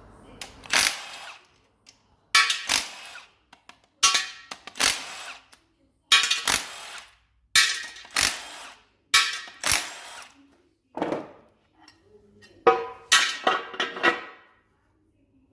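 A cordless power tool run in short bursts, about ten trigger pulls with brief pauses between them, each starting sharply and whining down as it undoes the bolts holding a plate under the engine.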